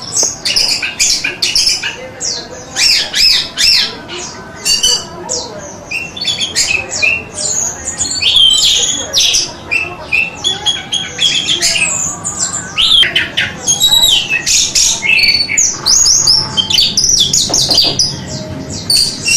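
Orange-headed thrush (anis merah) singing a long, fast, varied song of quick high whistles, sweeping notes and chatters, phrase after phrase without a break.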